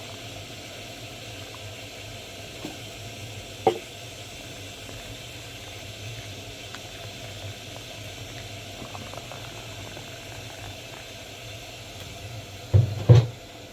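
Steady watery hiss, with a single sharp knock about four seconds in and two louder thumps close together near the end.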